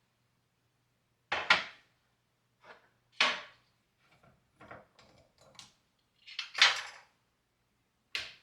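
Household objects being handled and set down: a string of sharp clinks and knocks, the loudest about a second and a half in and again near seven seconds, with a faint steady hum beneath.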